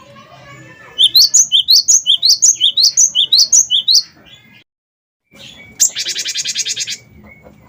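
Cinereous tit (gelatik batu) singing: a fast run of sharp, rising chirps lasting about three seconds. After a brief silent break comes a rapid trill about a second long.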